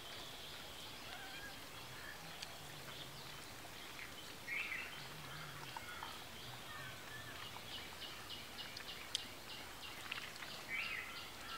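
Birds calling over a steady background hiss, with a fast, even run of high repeated notes, about three a second, starting about seven seconds in.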